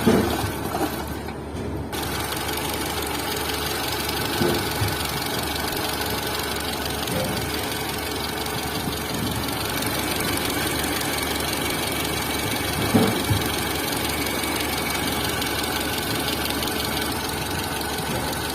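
Tata Zest car engine running steadily, with a few brief louder moments; the noise is put down to the camshaft.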